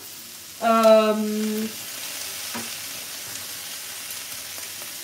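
Sliced courgettes sizzling as they fry in a pan while being stirred with a wooden spoon. Near the start a person hums one flat note for about a second.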